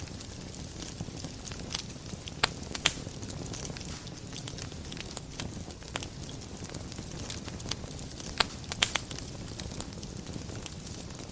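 Wood fire burning in a fireplace: a steady low rustle of flames with irregular sharp crackles and pops, a few louder snaps about two and a half seconds in, near three seconds, and a cluster around eight and a half to nine seconds.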